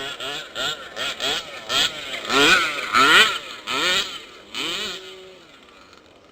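Small two-stroke engine of a gas-powered 1/5-scale RC truck revving in quick repeated blips, about two a second, each a rising whine, stopping about five seconds in. The owner puts the stuttering down to his belt.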